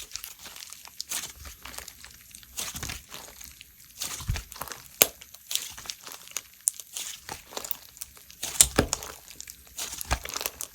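Melon cream slime with chips being pressed and stretched by hand, giving irregular crackling and sharp little pops, with a louder snap about five seconds in and again near the end.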